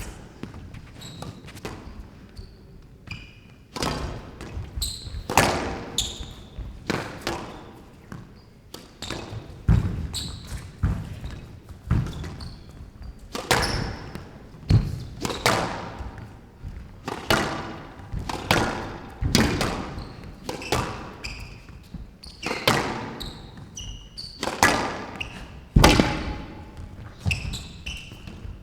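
Squash rally: the ball struck hard by rackets and hitting the court walls about once a second, each hit sharp with a short hall echo, with brief high squeaks of shoes on the court floor in between.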